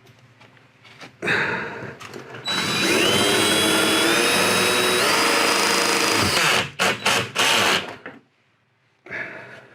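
Cordless drill driving a self-tapping screw through a door sweep: a short spin, then about four seconds of steady running with the motor pitch rising, then a few short pulses to seat the screw.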